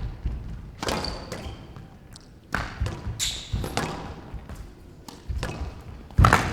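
Squash ball being struck by rackets and hitting the court walls during a rally: a string of sharp knocks at irregular intervals, with a short ring of the hall after each.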